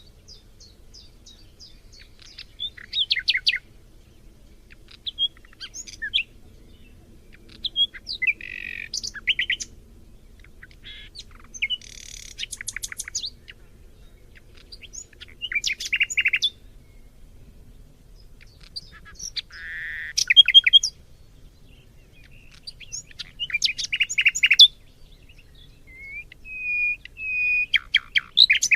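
Songbirds singing in short bursts of quick trills and chirps that come every few seconds, with a faint low background hum between them.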